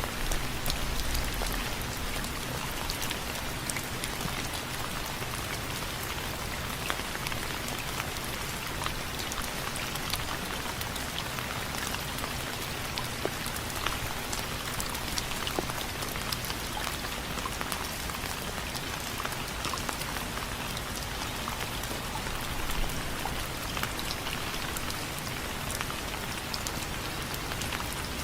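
Steady rain falling on window frames: a continuous hiss thick with many small drop ticks.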